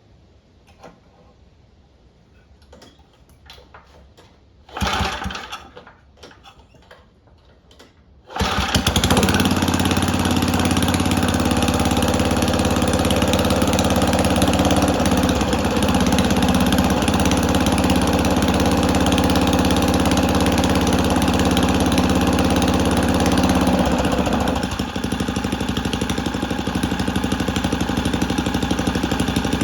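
Tecumseh 3.5 hp side-shaft lawn edger engine being cold-started with its pull rope. A first pull about five seconds in doesn't catch. The second pull about eight seconds in starts it, and it runs steadily, settling a little quieter about 25 seconds in.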